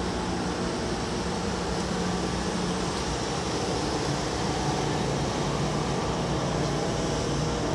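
Steady mechanical hum and noise inside a Seibu 2000 series electric train car.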